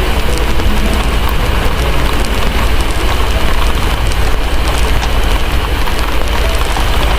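Heavy rain falling steadily over a deep, constant low rumble, with faint crackling from a wood fire.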